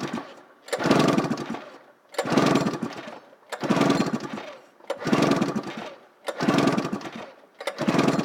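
Arctic Cat Firecat 700 EFI two-stroke twin snowmobile engine being cranked over by hand on its recoil pull starter for a compression test, about six pulls, one every second and a half or so. Each pull is a quick whirring chuff of the engine turning over that fades as the rope rewinds.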